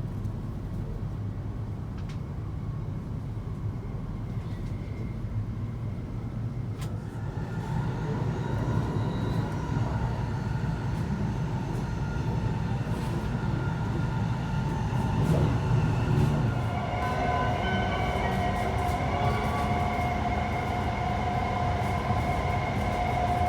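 E7 series Shinkansen heard from inside the passenger car: a steady rolling rumble. About seven seconds in, the Mitsubishi IGBT VVVF inverter's whining tones come in and grow louder, with a stronger, lower whine joining near the end.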